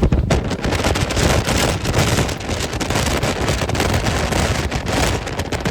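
Strong wind and rain buffeting the microphone through an open car window, a dense gusting rush with many sharp crackles: the wind of a nearby tornado.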